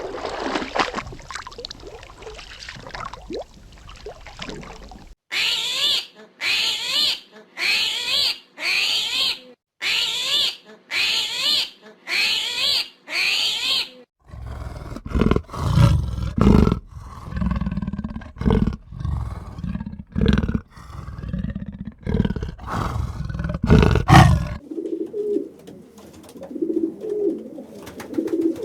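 A run of different animal calls one after another: first a string of short repeated calls, then a big cat roaring in a long series of loud, low calls, and near the end a pigeon cooing.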